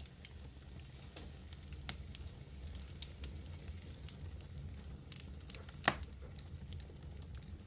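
Medium wood fire burning: a steady low roar with a faint hiss and scattered crackles, and one loud pop about six seconds in.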